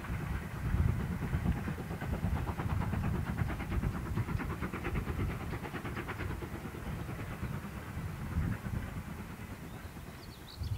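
Steam-hauled train running along the line out of sight: a low rumble with a fast clatter of wheels over the rails, slowly fading toward the end.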